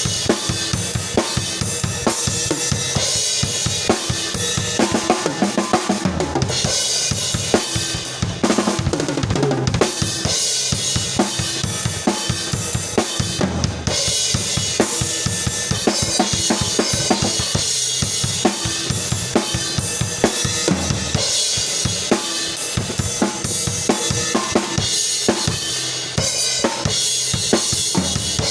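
Isolated drum-kit track: kick drum, snare and cymbals playing a steady groove, with a constant wash of cymbal.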